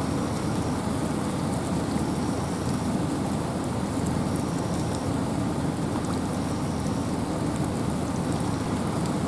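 Steady rain and wind in a forest: an even, deep rushing noise without a break, with a faint high note recurring about every two seconds.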